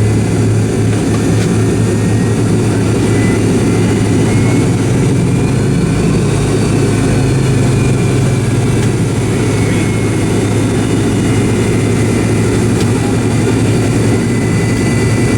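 MD88 jet engines running steadily, heard from inside the passenger cabin: a loud, even low hum with faint thin whining tones above it.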